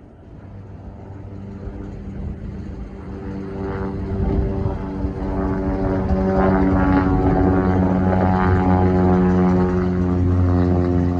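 Aircraft engine noise growing steadily louder as the plane approaches, a steady hum of several even tones over a rushing noise.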